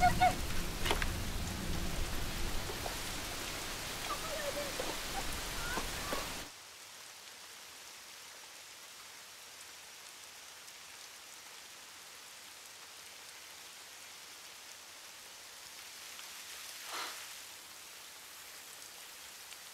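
Heavy rain pouring down, with women's short startled cries at the start. About six and a half seconds in it drops suddenly to a softer, steady patter of light rain, with one brief louder sound near the end.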